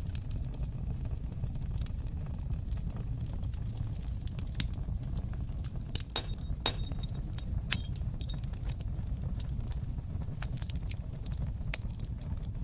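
Wood fire in a fireplace burning with a steady low rumble and scattered sharp crackles and pops, which come thickest around the middle, where the single loudest pop falls.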